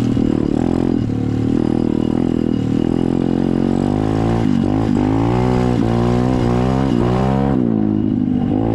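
SSR 125 dirt bike's single-cylinder four-stroke engine running, fairly steady at first. From about halfway the throttle is blipped over and over, the pitch dipping and rising several times, before it drops off near the end.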